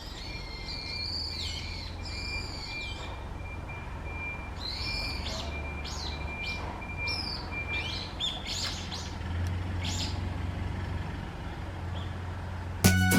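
Wild songbird calling in a string of short, varied, high-pitched phrases, with a thin steady tone under the first part and a low steady hum beneath.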